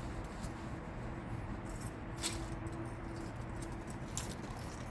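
A set of keys jingling lightly, with a few sharp metallic clicks, over a steady low hum.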